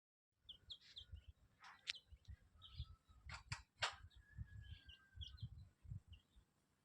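Parrot chirping in quick short calls, with a few sharp squawks in the middle and one held whistle about four seconds in, over low thumps and knocks; it starts abruptly about half a second in.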